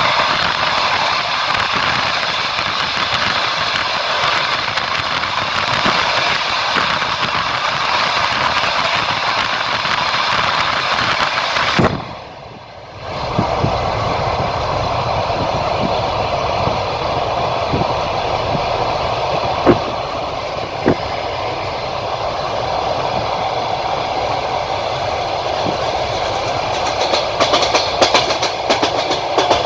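Passenger train carriage running on the line: a steady rumble and hiss of wheels on rail. The sound drops away briefly about twelve seconds in. A couple of sharp knocks come around twenty seconds, and a quick run of wheel clicks over rail joints comes near the end.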